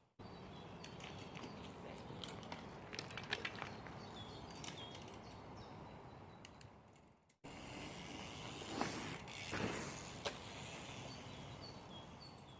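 Mountain bike riding over a dirt trail: steady tyre and rolling noise with scattered clicks, rattles and knocks from the bike, and birds chirping. Two short stretches, each fading out and then cut off.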